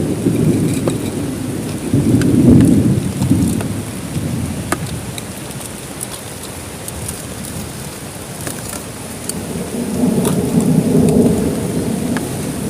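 Heavy rain falling steadily with scattered drop taps, and thunder rumbling twice: about two seconds in and again near the end.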